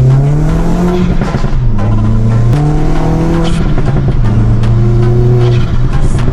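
Škoda Octavia RS's 1.8T 20V turbocharged four-cylinder engine revving, its pitch climbing, dropping back and holding at steady levels.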